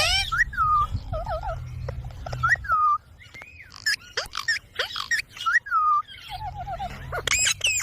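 Pet ringneck parrot calling: a run of short whistled chirps that bend up and down in pitch, with quick trilled notes in between. A low hum lies under the first couple of seconds and comes back near the end.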